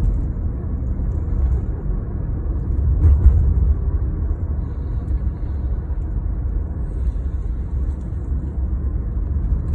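Steady low rumble of vehicle road noise, with a slight swell about three seconds in.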